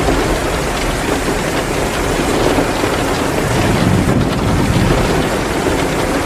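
Heavy downpour of rain making a dense, steady hiss, with the faint crackle of a wood fire in a fireplace. A low rumble swells about four seconds in.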